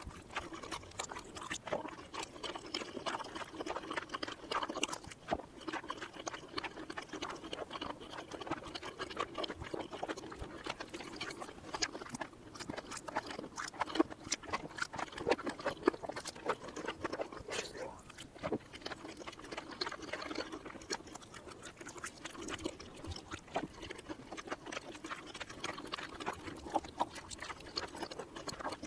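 ASMR eating sounds of chewy cheesy mini rice cakes played in reverse: a continuous run of wet, sticky chewing clicks and smacks.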